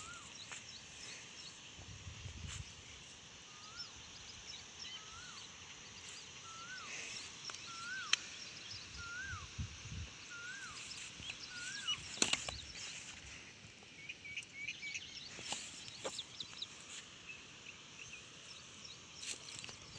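Birds calling outdoors: one bird repeats a short call that rises and falls, about eight times, each under a second apart, in the first half, over fainter high chirping from other birds. A few sharp clicks come in the second half.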